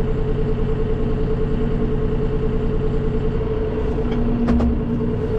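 Farm tractor engine running with a regular throb and a steady high whine. About three and a half seconds in, the throb fades and a lower steady whine comes in, with a few sharp clicks shortly after.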